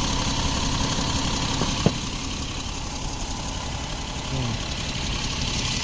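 2011 Jeep Wrangler's 3.8-litre V6 idling steadily while it has its cylinder-2 misfire, with one sharp click about two seconds in.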